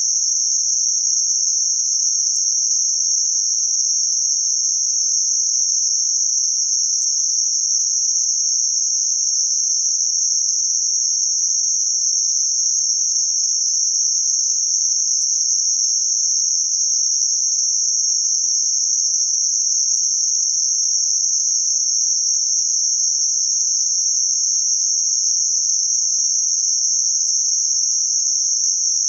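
Synthetic noise band-limited around 6051 Hz: a steady, even high-pitched hiss with no change in level.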